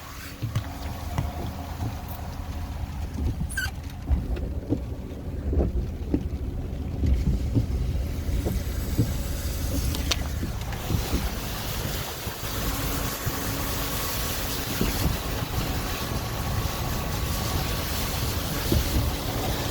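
Storm wind gusting over the microphone: a heavy, uneven low rumble with a faint steady hum underneath.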